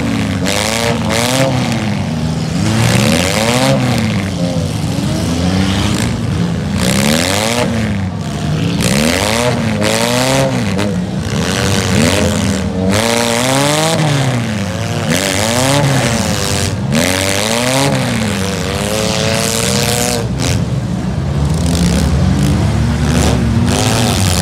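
Several demolition derby cars' engines revving hard and dropping back again and again, overlapping one another, with occasional bangs.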